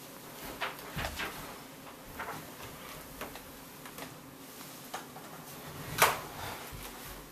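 Scattered small knocks and rustles of objects being handled, with one louder knock about six seconds in.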